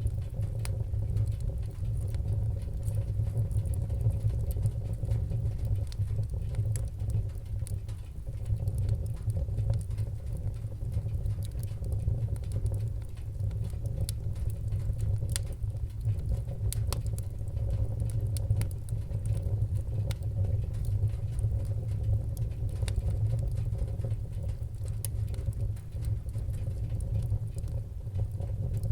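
Wood-burning fire with a low, steady rumble and scattered crackles and pops at irregular intervals.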